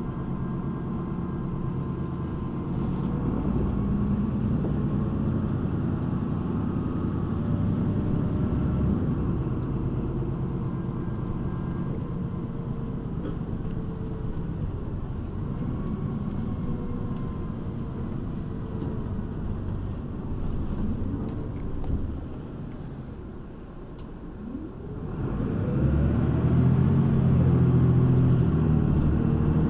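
City bus engine heard from inside the cabin, running under way with low rumbling tones; about three quarters of the way through it drops to a quieter idle for a few seconds, then rises in pitch and gets louder as the bus pulls away.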